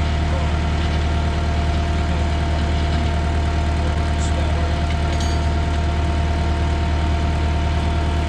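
An engine idling steadily, a deep even hum with a faint steady whine above it, from the machine lifting the engine.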